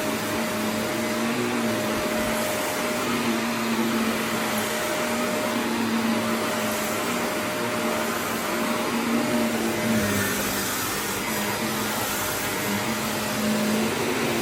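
Canister vacuum cleaner running steadily over an area rug, a continuous airflow rush with a steady motor hum.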